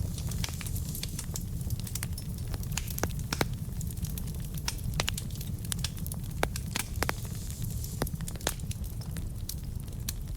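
Wood fire burning in a fireplace: a steady low rumble with frequent, irregular sharp crackles and pops from the burning logs.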